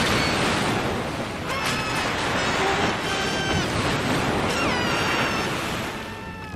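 Cartoon soundtrack: a loud, steady rushing rumble with three short, high, pitched cries or calls over it, the last one bending downward. It fades near the end.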